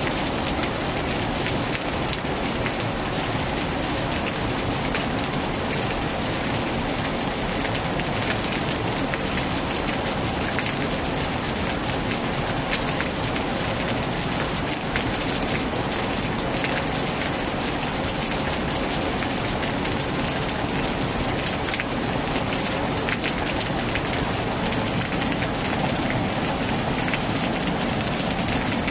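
Heavy rain falling steadily, a dense even patter with many sharp individual drop hits throughout.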